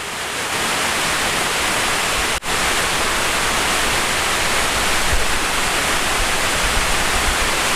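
Small waterfall: steady rushing of falling water, loud and close, swelling up over the first second, with a momentary break about two seconds in.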